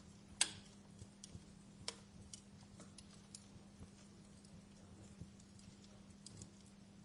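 Wood fire in a fireplace crackling: scattered sharp pops, the loudest about half a second in, over a faint steady low hum.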